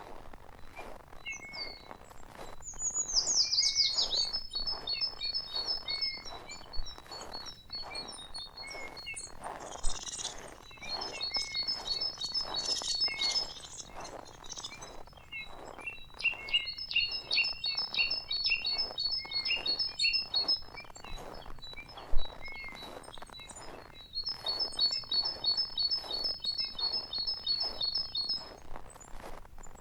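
Small songbirds singing: bouts of rapid, high trilled phrases lasting a few seconds each, with a quick falling call about three seconds in. Faint irregular soft taps run underneath.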